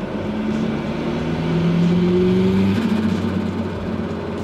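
Turbocharged Mazda G6 four-cylinder engine of a Mazda Bravo ute pulling under boost, heard from inside the cab. Its note rises steadily and is loudest around two thirds of the way through, then drops back as the throttle eases. On this pull it makes only about 5 psi of boost.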